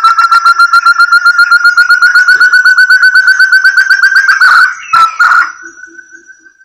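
Recorded call of a forest quail (puyuh hutan, locally 'burung terung'), played as a lure: a fast series of clear whistled notes, about ten a second, slowly rising in pitch. It ends with a couple of stronger notes and fades out about five and a half seconds in.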